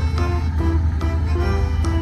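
Background music: a melody of short plucked-string notes over a steady low bass.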